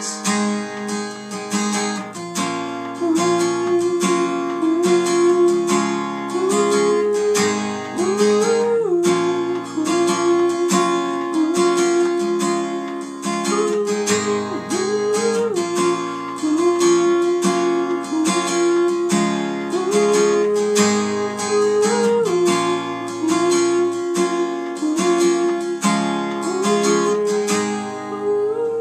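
Instrumental break of a song: acoustic guitar strumming steady chords, with a held melody line above that slides up in pitch every couple of seconds.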